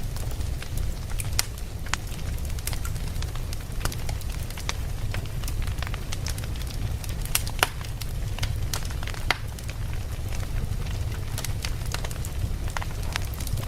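Campfire burning: a steady low rumble of flames with frequent sharp crackles and pops of burning wood, a couple of louder pops near the middle.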